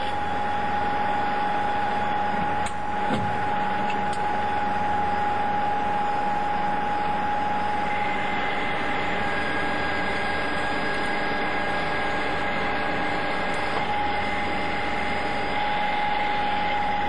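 Capstan lathe running and turning a bar, with a steady machine noise and a constant high whine. A second, higher whine joins about halfway through, and there is a small knock about three seconds in.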